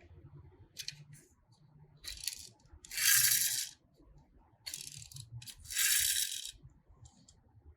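Small hard objects rattling and clicking. There are short light clicks throughout, and two louder rattling bursts of under a second each, about three and six seconds in.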